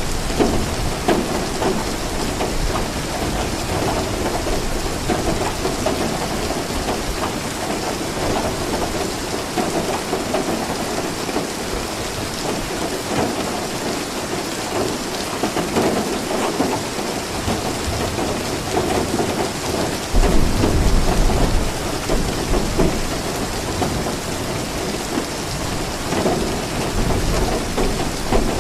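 Steady rain falling, with low rolls of thunder beneath it; a louder rumble sets in suddenly about two-thirds of the way through.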